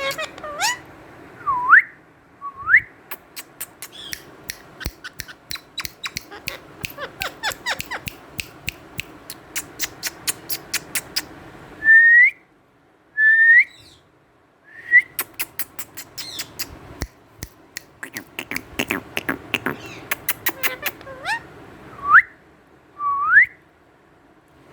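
Indian ringneck parrot giving short whistles that sweep upward, mostly in pairs, between runs of rapid sharp clicks.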